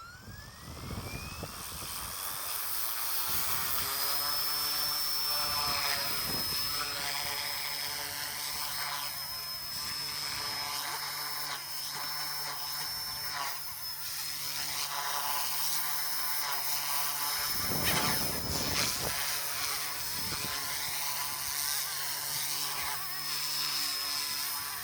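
GOOSKY S2 micro RC helicopter's electric motors spooling up with a rising whine, then the rotors running at a steady buzz with a high motor whine on top. About 18 seconds in there is a brief louder whoosh.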